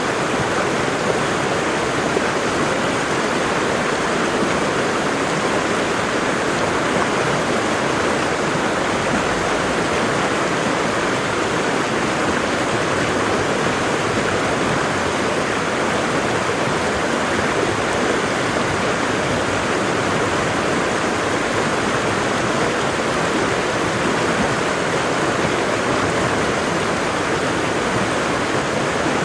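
Waterfall: water falling and rushing in a steady, even roar with no breaks or changes.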